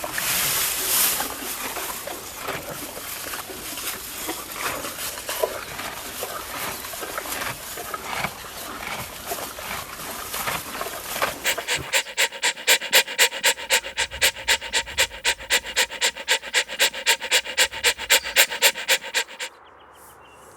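Rustling noise full of small clicks, then from about halfway an animal panting rapidly and evenly, about three to four breaths a second, which stops shortly before the end.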